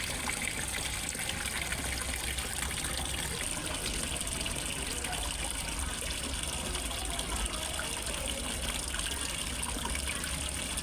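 Steady splashing and trickling of water falling into a fish pond from a small waterfall.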